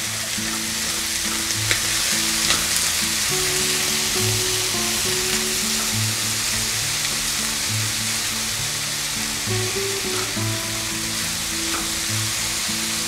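Sweetcorn kernels sizzling in butter in a non-stick frying pan, with a steady hiss, as they are stirred and tossed with a spatula.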